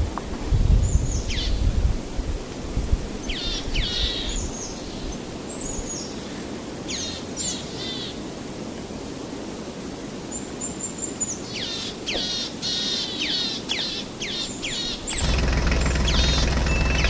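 Small birds chirping over and over, each call a quick falling whistle, over a low wind-like rumble that is strongest in the first couple of seconds. About fifteen seconds in, a steady small engine running cuts in abruptly and becomes the loudest sound.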